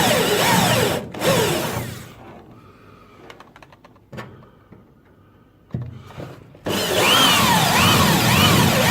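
Power tool running with a pitch that swings up and down about three times a second. It stops about two seconds in, leaving a few quiet seconds with a couple of clicks, then starts up again.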